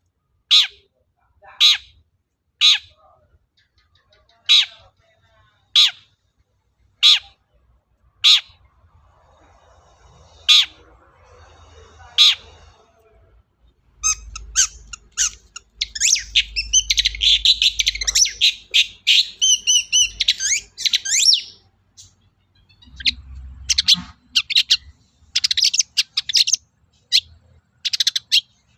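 Long-tailed shrike calling with harsh, scratchy single notes about once every second or so. About halfway through it breaks into a fast run of chattering song notes for several seconds, then goes back to spaced harsh calls near the end.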